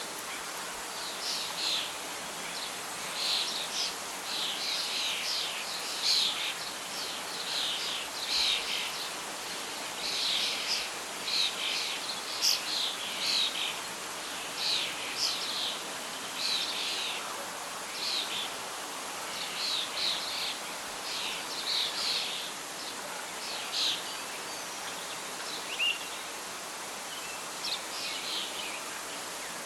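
Songbirds chirping and singing over a steady soft rush of wind in leaves; the calls grow sparse near the end.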